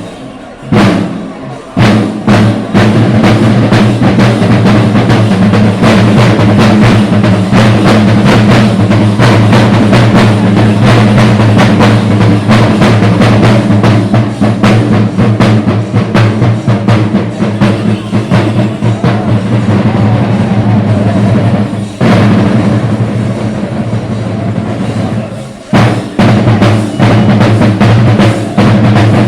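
Kerala temple percussion: chenda drums beaten in a fast, dense roll, loud and continuous, with a short break just after the start.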